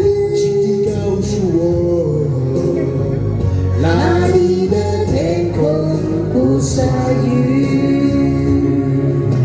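Slow Cantopop duet ballad: a voice sings over a steady karaoke backing track.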